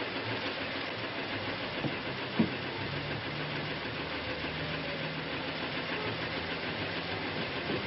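Old open touring car's engine running steadily with a low hum, under a steady hiss, with a single short knock about two seconds in.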